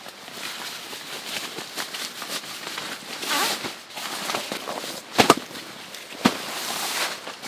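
Wood fire crackling, with many small irregular pops and two sharp loud cracks about five and six seconds in.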